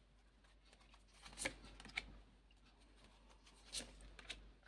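Faint rustles and taps of tarot cards being handled and laid out: a few short, soft sounds spaced a second or two apart in a quiet room.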